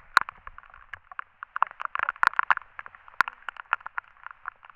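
Heavy rain, with drops striking the waterproof camera as a dense, irregular patter of sharp taps and clicks.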